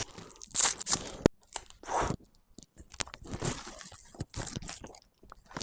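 Someone chewing a mouthful of raw salad, with irregular wet crunches close to the microphone.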